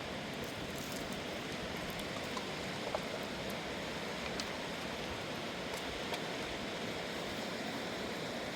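Steady rush of a mountain river flowing, with a few faint clicks.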